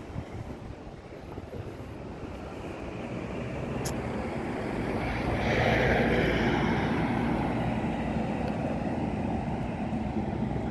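Melbourne suburban electric train running, its rumble growing louder to a peak about six seconds in and then holding steady, with a single sharp click near four seconds.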